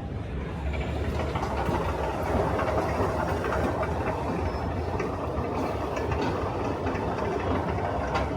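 Steady low rumble of a train running, growing louder about a second in, with faint clicks over it.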